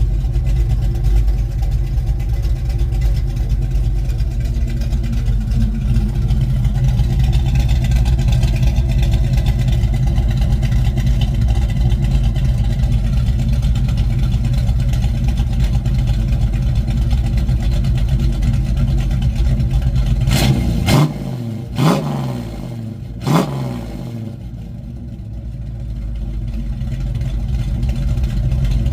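Mustang Mach 1 V8 with a Crane 2040 camshaft, running loud and steady through a single 3-inch exhaust with a Black Widow Venom muffler. About twenty seconds in come three quick, sharp throttle blips, then the exhaust drops quieter and builds again.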